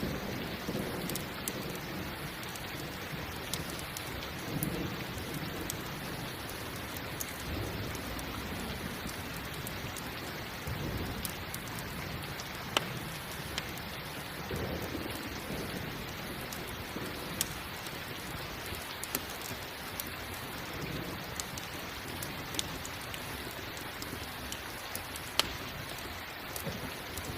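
Steady rain with low rumbles of thunder swelling now and then, and scattered sharp pops from a crackling campfire.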